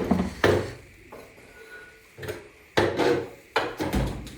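Knocks, clatter and scraping of dryer parts being handled and set aside during disassembly: about half a dozen separate knocks and rubs, with a heavier low thump shortly before the end.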